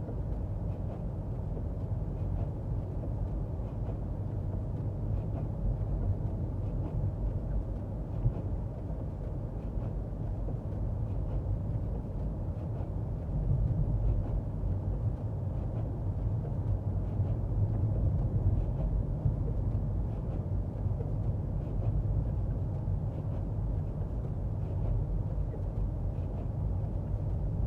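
A car heard from inside the cabin: a steady low rumble that grows a little louder about halfway through.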